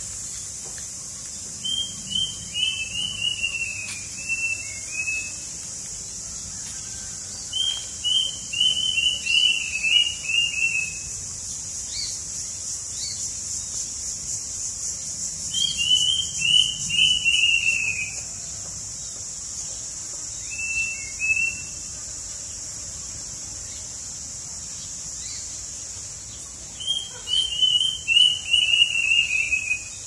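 A songbird singing in repeated phrases, each a quick run of clear whistled notes stepping down slightly in pitch, about five phrases, with pauses of several seconds between them. A steady high insect buzz runs underneath.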